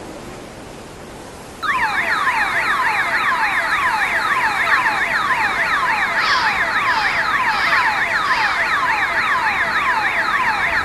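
Emergency vehicle siren in a fast yelp, a rapid rise and fall repeating a few times a second, starting suddenly about one and a half seconds in over a faint background hiss.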